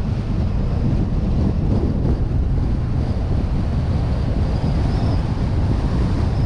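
Wind rushing over an action camera's microphone on a moving vehicle, mixed with steady road and engine noise. A faint high whine comes in about four seconds in.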